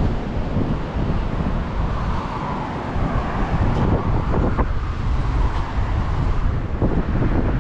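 Wind buffeting the microphone outdoors, a steady low rumble that swells and drops in gusts.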